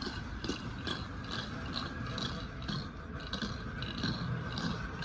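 TYCO Ralston Purina hi-cube chug-chug sound boxcar rolling slowly on HO track. The roller inside tumbles small rocks, making a rattling chug about twice a second, over the steady whine and track rumble of the TYCO Kader-drive steam locomotive.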